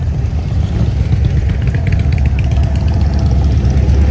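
Motorcycle engine running with a deep, steady rumble that grows a little louder near the end.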